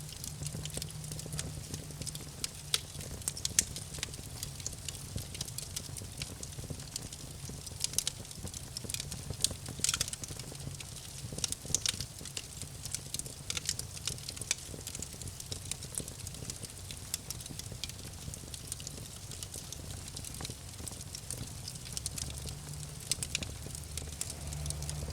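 Campfire crackling: burning wood snapping and popping in many sharp, irregular clicks, over a low steady hum.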